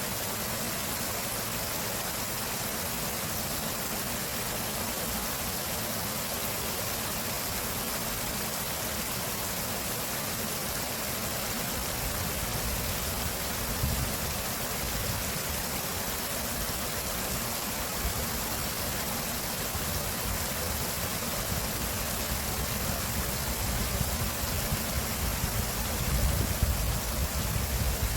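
Stream water flowing steadily, an even rushing hiss. Low rumbling gusts come in about halfway through and grow stronger near the end.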